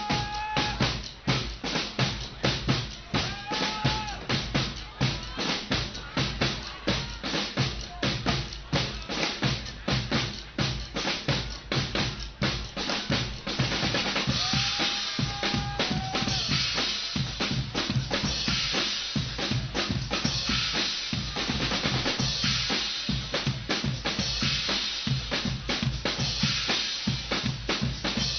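Guggenmusik carnival band playing: a drum section beats a fast, driving rhythm, with a few short held brass notes. From about halfway in the sound fills out, with a denser, brighter wash over the drums.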